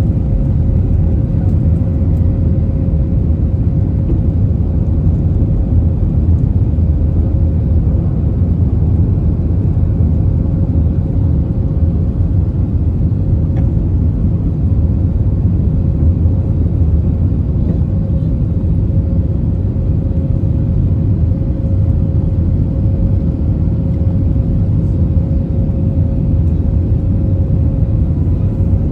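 Cabin noise inside an Airbus A321-231 with its IAE V2500 engines running: a steady low rumble with a constant hum above it, unchanging in level.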